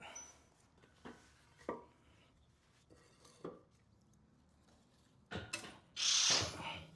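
Metal tools and engine parts being handled: a few separate clinks and knocks, then a louder scraping rattle near the end.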